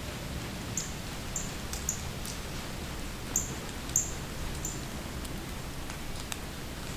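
A small bird's thin, high-pitched call notes, about six short notes at irregular intervals, over a low steady rumble, with a few faint ticks.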